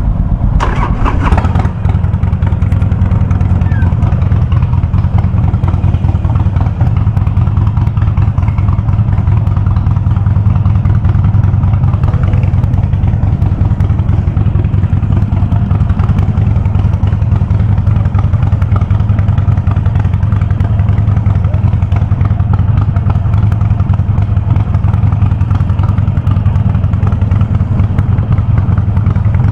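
Harley-Davidson Sportster 48's air-cooled V-twin running steadily through a loud aftermarket VnH exhaust (knalpot brong), with a deep, even exhaust note. A short sharp noise cuts in about a second in.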